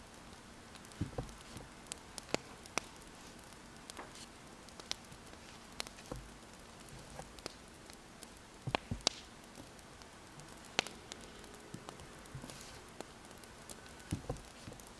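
Wood fire crackling, with irregular sharp pops and snaps over a soft steady hiss, along with faint pen-on-paper writing.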